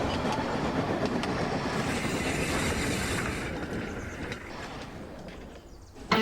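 Hornby OO gauge model locomotive running along its track, a steady rumble with faint clicks over the rails, fading away over the last couple of seconds.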